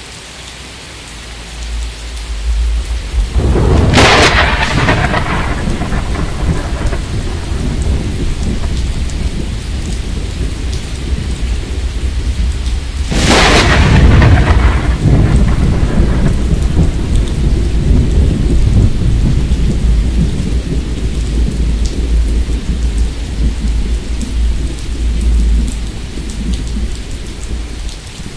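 Steady rain with two thunderclaps, about four and thirteen seconds in, each a sharp crack followed by a low rumble rolling on for several seconds; the second is the louder.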